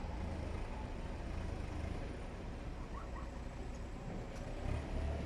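Tractor engine running with a steady low rumble.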